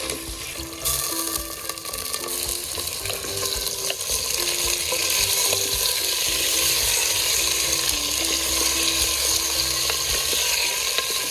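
Chicken and garlic sizzling as they sauté in a clay pot, the sizzle growing louder about a second in and then holding steady.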